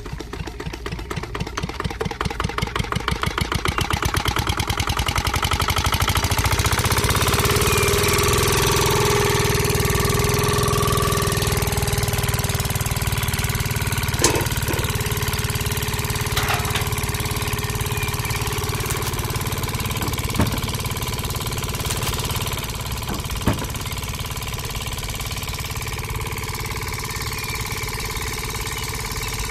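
Small engine starting, its chugs quickening over the first few seconds until it runs steadily, with a few sharp knocks partway through.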